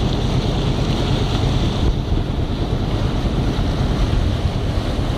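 Steady wind buffeting the microphone over a constant low rumble, on board a tanker ship.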